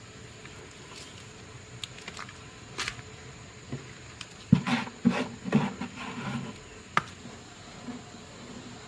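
Scattered clicks and knocks of small hard objects being handled, with a cluster of louder knocks a little past the middle and a single sharp click soon after.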